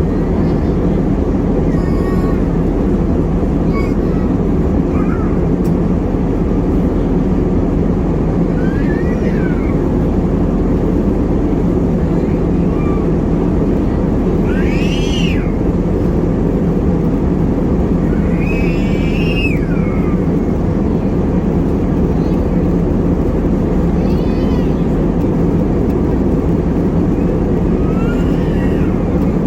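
Steady roar of an airliner cabin in flight, the jet engines and airflow as heard from a window seat. A few high, wavering cries rise briefly over it, the loudest two about halfway through.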